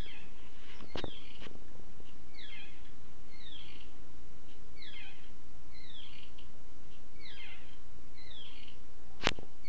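A bird chirping over and over, short falling chirps less than a second apart, with a steady low hum behind. Sharp clicks come about a second in and again near the end, the later one the loudest sound.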